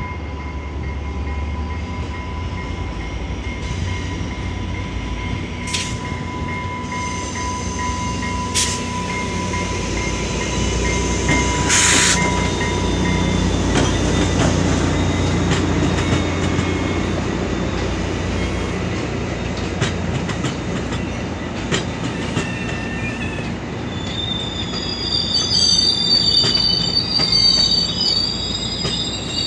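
exo commuter train of bilevel coaches rolling close past, with a steady low rumble of wheels and locomotive. A steady high tone sounds through the first half, and a few sharp knocks come along the way. Wavering high-pitched wheel squeal sets in near the end.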